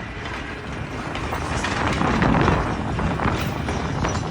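Steam train, locomotive 136 with two coaches, passing close: a dense run of clanks and rattles from the running gear and wheels on the rails, building to its loudest about two seconds in.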